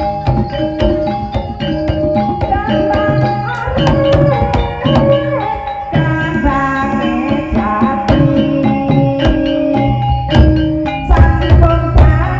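Live Javanese gamelan music for an ebeg (jaran kepang) dance: drum strikes over a repeating melody of metallophones, with a gliding melodic line in the middle.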